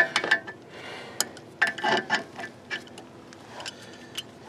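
Metal tools and brake parts being handled: a run of sharp clinks and knocks, some ringing briefly, the loudest at the very start and again about two seconds in.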